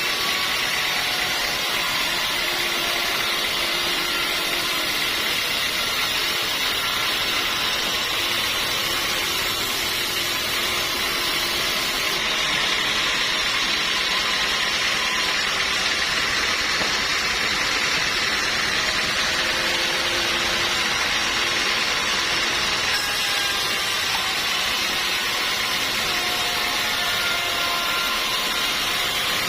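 Sawmill machinery running steadily, a constant mechanical hum and hiss that holds at the same level throughout.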